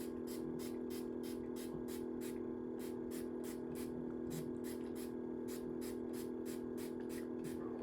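Trigger spray bottle misting water onto hair in quick short spritzes, about three a second and often in pairs, over a steady low hum.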